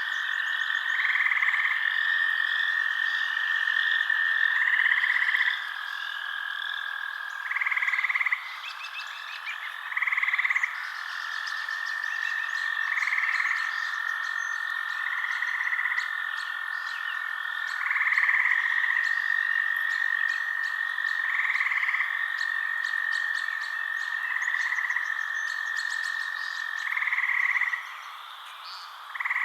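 Night forest chorus of calling frogs: a steady high-pitched trill with louder calls swelling in every two to three seconds, and quick clicking chirps above it.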